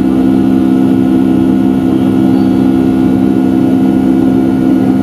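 Steady cabin drone of a Boeing 757-200's Rolls-Royce RB211 engines and the airflow, heard inside the passenger cabin during the climb after takeoff. It is a hum of several low tones over a rushing hiss.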